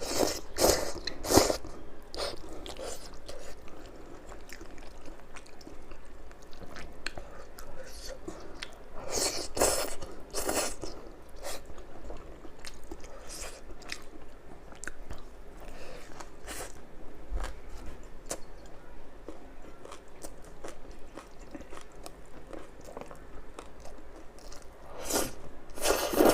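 Close-miked chewing of crispy food, with loud crunching bites near the start, about ten seconds in, and near the end, and softer chewing in between.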